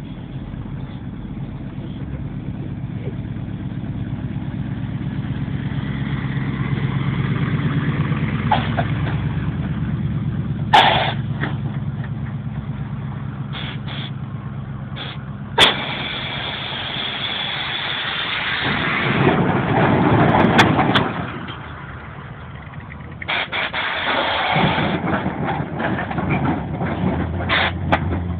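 Car engines running: a steady rumble that slowly grows louder, two sharp knocks near the middle, then a louder surge of engine noise that swells and drops off suddenly about three-quarters of the way through, followed by more engine noise.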